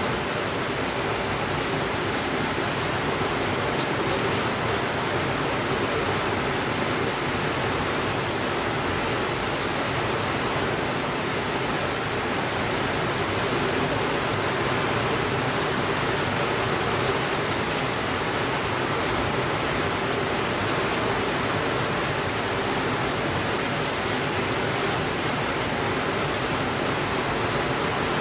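Steady rainfall, an even dense hiss that holds at one level throughout.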